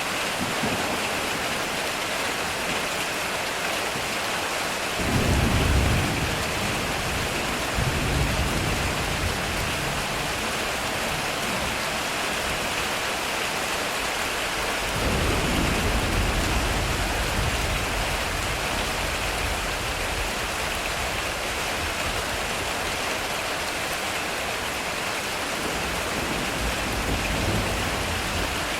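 Heavy rain drumming steadily on a metal roof, with thunder: a sudden low rumble about five seconds in, a smaller one soon after, and a longer rolling rumble about halfway through.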